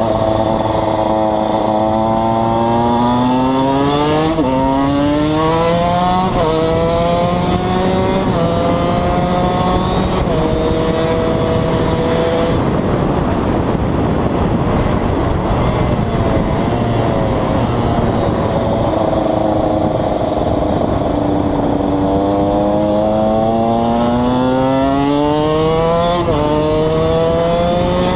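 KTM 125 EXC's single-cylinder two-stroke engine pulling hard up through the gears, its pitch climbing and dropping at four quick upshifts. It then eases off for several seconds before accelerating again, with another shift near the end.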